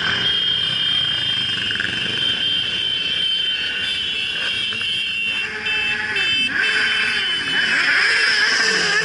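Motorcycles riding past in a group, engines running, with their pitch rising and falling in the second half.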